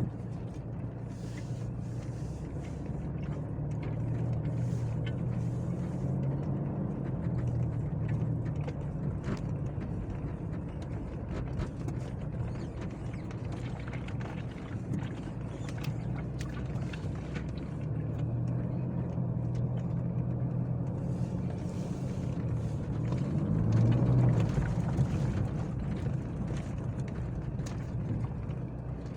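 A motor vehicle being driven, its engine running steadily with scattered knocks and rattles. About 23 seconds in, the engine note rises and grows louder for a couple of seconds before settling again.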